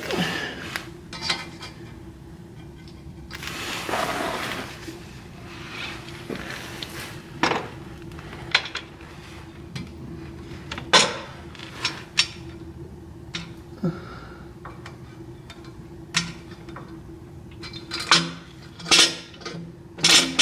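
Irregular metallic clinks, knocks and scrapes as a steel exhaust header and its flange nuts are worked onto the engine's studs by hand.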